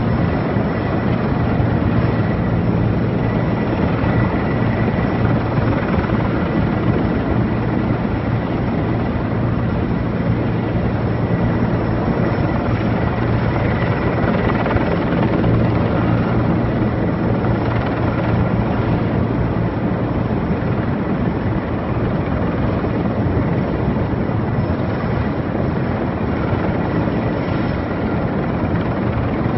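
Erickson Air-Crane heavy-lift helicopter running steadily overhead, its rotor and turbine noise loud and constant, with a strong low drone.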